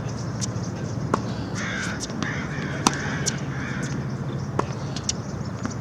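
A crow cawing about four times in quick succession, with scattered sharp ticks throughout.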